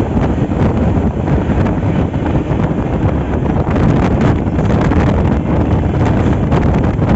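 Passenger train running, a steady low rumble, with wind buffeting the microphone.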